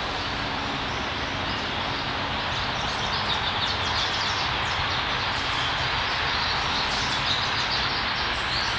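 A steady rushing background noise, with many short, high chirps from small birds starting about two and a half seconds in.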